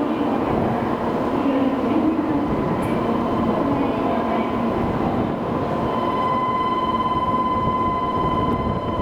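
Shinkansen train running along the station platform: a loud, steady rush of rolling and air noise with a thin high whine that grows stronger over the last three seconds.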